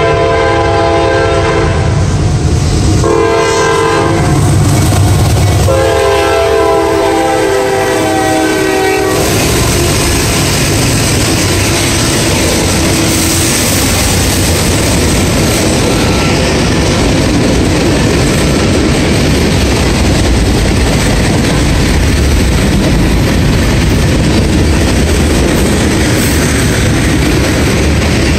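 A CSX freight train led by four diesel locomotives blows its horn in several blasts, the last one long, for the grade crossing. The horn stops about nine seconds in, and the locomotives rumble past, followed by the steady rolling and clickety-clack of freight car wheels on the rails.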